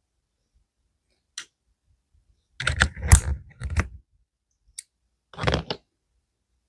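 Clacking from a mechanical keyboard: a single click, then two short clusters of rapid clacks with pauses between.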